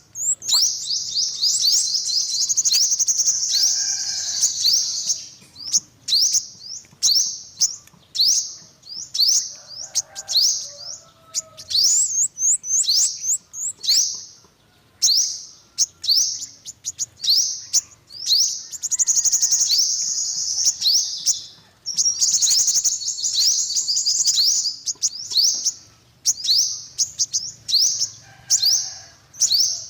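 Yellow-bellied sunbird singing: rapid series of high, thin, falling chirps, run together into dense twittering trills several times.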